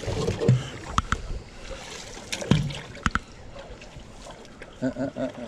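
Scattered knocks and clicks from handling gear in a small boat, with light water splashing, while hooks are worked free of a hooked stingray with pliers.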